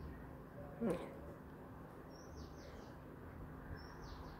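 Faint bird chirps: short, high falling notes, repeated a few times, over low room noise. There is one brief louder sound with a falling pitch about a second in.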